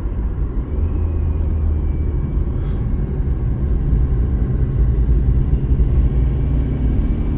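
Car climbing a mountain road: a steady low engine and road rumble, with a faint engine hum underneath.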